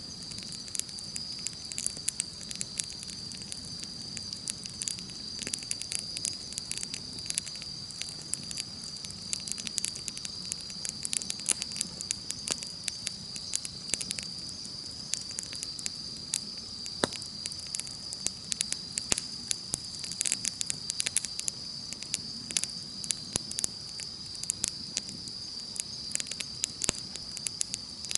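Wood campfire crackling with frequent sharp pops and snaps, over a steady high-pitched insect trill.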